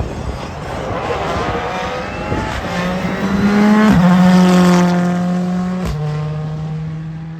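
Rally car accelerating hard past, its engine note climbing and then dropping at a gear change about four seconds in and again about six seconds in. It is loudest around the first change and fades after.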